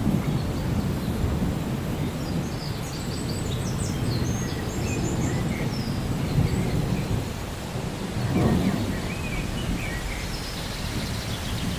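Steady rain with a low rolling rumble of thunder, swelling about eight seconds in. A few short bird chirps sound high above it.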